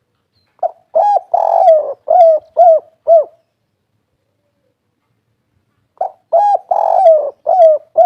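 Spotted dove cooing its 'kuk 3' song twice: each phrase is a run of short falling coos with a longer note, ending in three clipped notes. The two phrases are separated by a pause of about three seconds.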